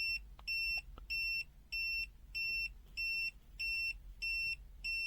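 FUYI FY123 multimeter's NCV buzzer beeping steadily in short, high-pitched beeps, about one and a half a second, as it senses a live wire from about 3 cm away: the slow rate of its lowest detection level, level 1.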